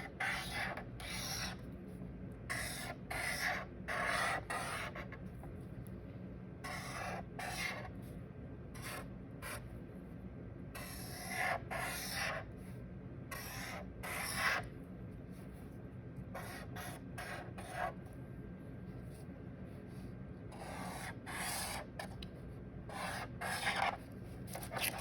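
A pen drawing on paper in short, irregular scratchy strokes with pauses between them, as leaves are sketched in.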